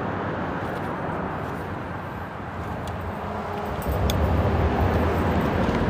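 Steady freeway traffic noise from the bridge overhead, with the low end growing louder about four seconds in as heavier vehicles pass.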